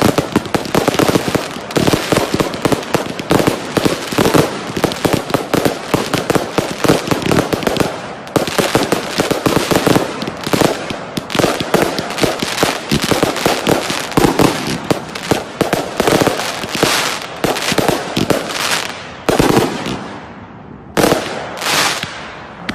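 Fireworks in the finale of a display: a dense, rapid barrage of bangs and crackles that thins out near the end into a few separate bangs.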